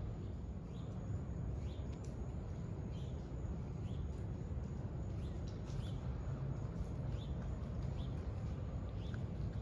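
Birds chirping, short high calls about once a second, over a steady low rumble.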